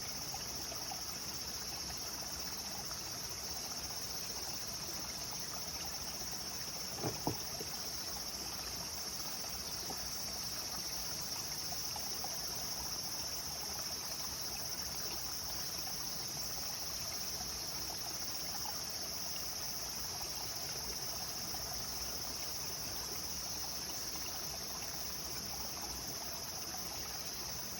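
Clear river water flowing steadily, with a steady high-pitched insect drone over it and two brief knocks about seven seconds in.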